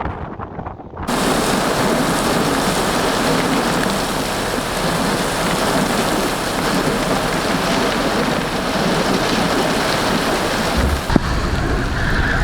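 Torrential thunderstorm rain pouring down hard, cutting in abruptly about a second in and staying steady, with a single knock and a deeper low rumble near the end.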